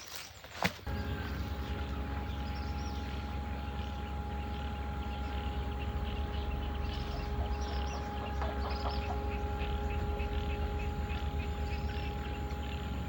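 A motor starts running about a second in and keeps running steadily with a low pulsing hum and a steady whine, after a couple of knocks; small birds chirp over it.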